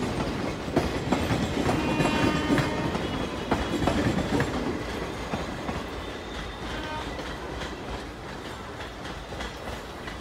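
Passenger train coaches rolling past on the adjacent track, their wheels clattering over the rail joints. The clatter fades steadily as the train moves away.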